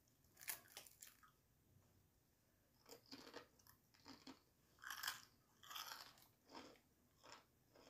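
Biting into and chewing crispy fried chicken, the coating crunching in short irregular bursts: one bite about half a second in, then steady chewing from about three seconds on.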